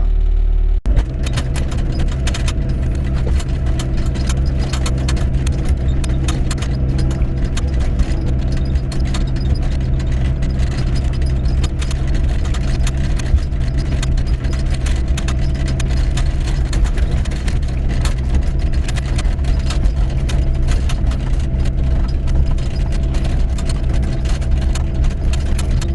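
Doosan 55W wheeled excavator's diesel engine running steadily as the machine sets off, with a dense, continuous clatter of rattles over the engine hum.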